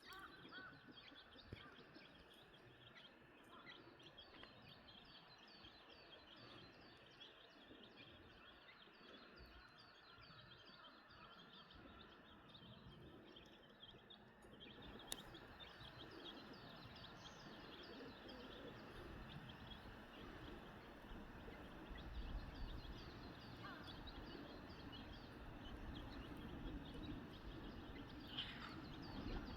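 Faint, continuous high peeping of young chicks over a low outdoor background noise, which grows a little louder about halfway through.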